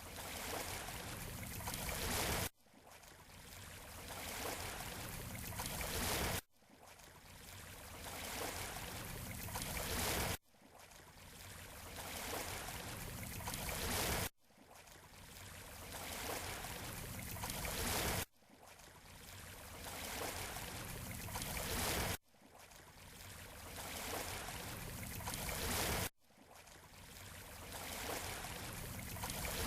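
Surf washing on a beach shore, a short recording looped about every four seconds: each pass swells steadily louder, then cuts off abruptly before starting again.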